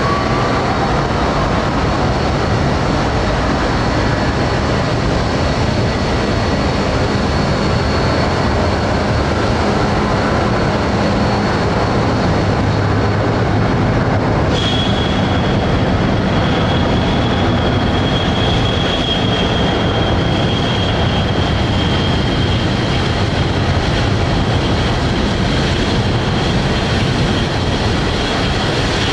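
Jet airliner engines running with a steady roar and a thin high whine; about halfway through the whine jumps to a slightly lower pitch.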